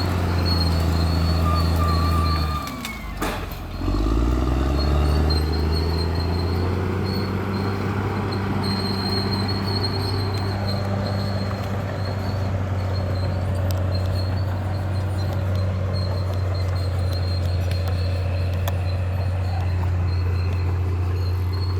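Bulldozer's diesel engine running steadily. About three seconds in the revs drop sharply with a knock, then climb back up within a second.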